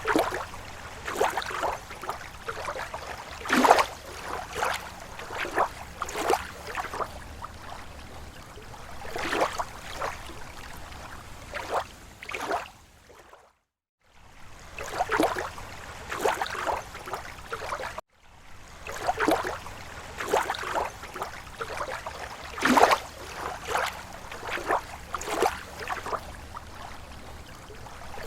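Small waves lapping at a lake shore: irregular slaps and splashes of water, several in a row, sound briefly cutting out twice partway through.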